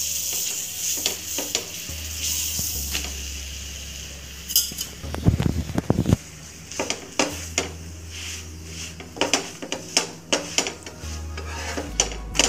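A thin flatbread sizzling in butter on a hot tawa, then, from about four seconds in, a run of sharp clicks, knocks and scrapes from a spatula against the tawa as the bread is pressed and flipped.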